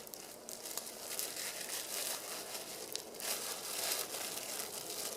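Rustling and crinkling that comes in surges of a second or so, with a few faint sharp clicks.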